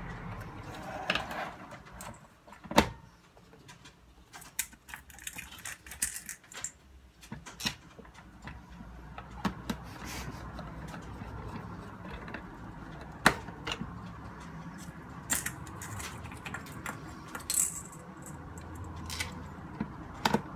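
Scattered sharp clicks, taps and light metallic rattling of small parts and tools being handled while a portable radio is taken apart.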